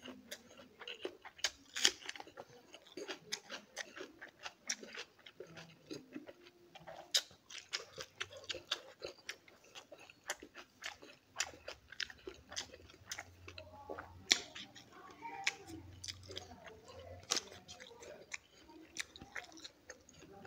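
Close-up chewing of mouthfuls of rice and stone fish curry, with many sharp, irregular wet clicks and crunches.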